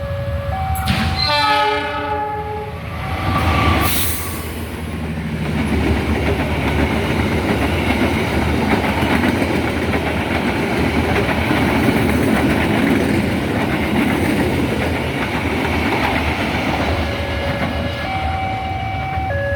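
Malabar passenger train passing: its locomotive horn sounds about a second in, a brief loud noisy burst follows near four seconds, and then the coaches run by with a steady rumble and clickety-clack. An alternating two-tone warning signal, like a level-crossing alarm, is heard at the start and again near the end.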